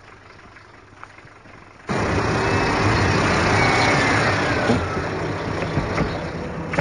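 A car engine running steadily. It cuts in abruptly about two seconds in, after a quiet start.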